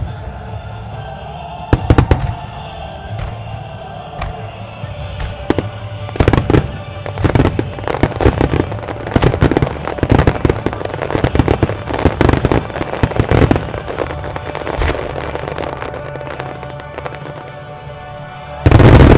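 Starmine fireworks barrage: rapid launches and shell bursts over music. The bangs come thickly from about six seconds in, ease off, then a dense, loudest volley of bursts hits near the end.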